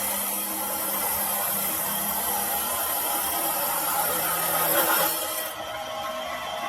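Steel being cut or machined on a workshop machine: a steady scraping cutting noise over a faint machine hum, which stops abruptly about five and a half seconds in.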